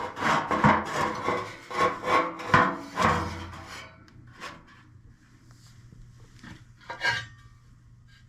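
A furnace blower's fan wheel being slid into its casing: rough scraping and knocking of the wheel against the housing for about three seconds, then a few light clicks as it is set in place.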